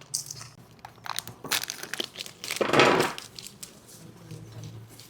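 Packaging crinkling and rustling as a gelatin packet is opened, with small clicks and a louder rustle a little under three seconds in.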